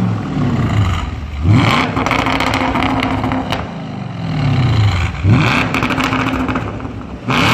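Car engine free-revved through its exhaust: it idles, is blipped up and held high twice, sinking back toward idle after each, and a third rev starts near the end.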